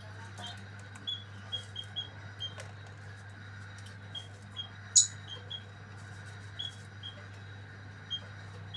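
Spotted dove chick peeping: short, high, slightly falling peeps repeated irregularly, sometimes several a second. A sharp click about five seconds in, over a steady low hum.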